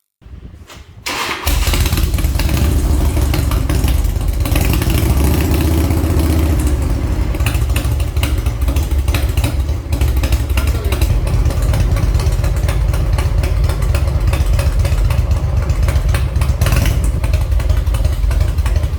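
Harley-Davidson touring bike's carbureted Evolution V-twin catching about a second and a half in, then idling with its uneven, horse-hoof-like lope.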